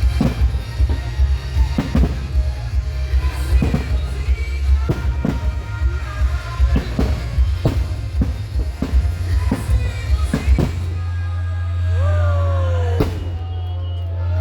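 Loud music with a heavy bass beat and sharp bangs from a fireworks display. After about eleven seconds the beat gives way to a steady low bass drone, with a few falling tones.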